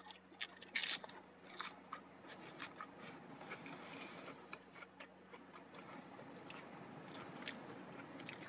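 Fried tostada shell crunching as it is bitten and chewed: sharp crisp crunches, loudest and closest together in the first couple of seconds, then scattered quieter crunches and soft chewing.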